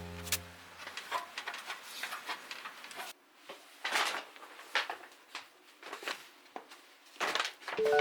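Irregular light knocks and clicks, scattered and uneven, after a music note dies away in the first second.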